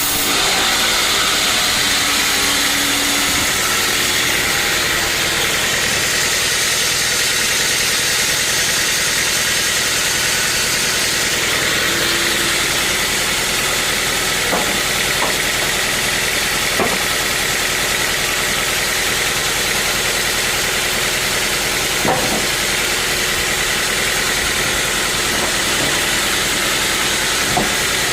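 Portable bandsaw sawmill running steadily, with a high whine from the blade and engine, broken by a few short knocks or clicks in the second half.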